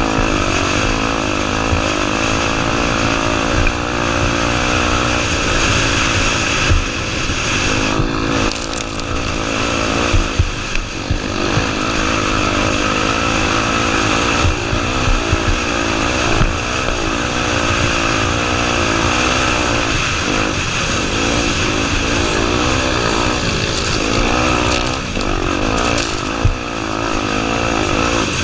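Honda Tornado 250's single-cylinder four-stroke engine revving up and down over and over under riding load, with a steady rush of noise and a few sharp knocks here and there.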